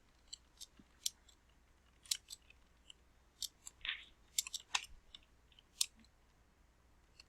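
Irregular, faint clicks of a computer keyboard as someone types slowly.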